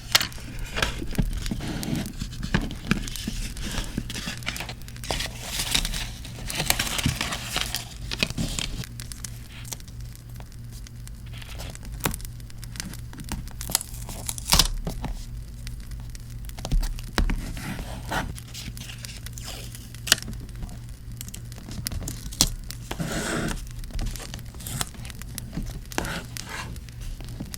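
Paper handled by hand at close range: rustling, crinkling and tearing, with many short clicks and scrapes, busiest in the first third and sparser after.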